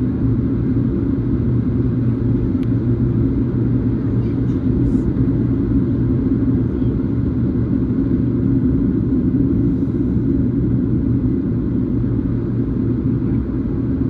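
Boeing 737's engines and airflow: a steady, low rumble.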